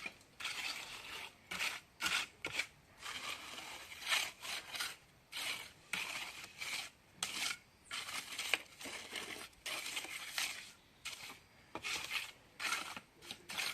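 A trowel scraping through cement mortar in quick repeated strokes, roughly one or two a second.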